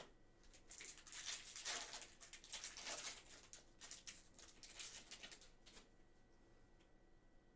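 Trading cards being handled: a run of rustling, sliding and scraping sounds from about half a second in to nearly six seconds in.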